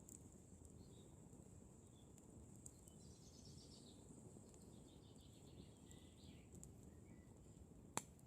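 Wood campfire crackling faintly, with scattered small snaps and one sharp, louder pop near the end. Birds chirp faintly in short trills in the background.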